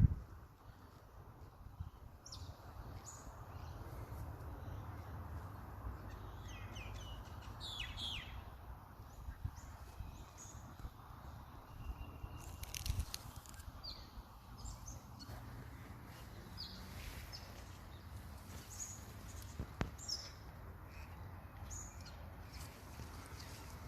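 Scattered short, high bird chirps over a steady low outdoor background rumble.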